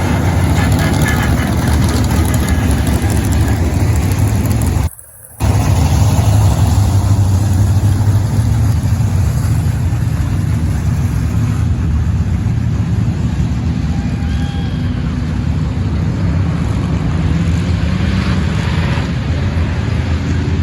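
A field of pro race trucks' engines running together on the track, a steady loud din. The sound cuts out for about half a second about five seconds in.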